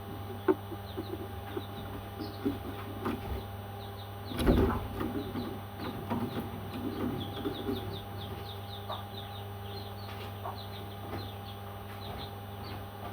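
Parrots chirping over and over in short, high notes, with a single loud knock about four seconds in and a steady low hum underneath.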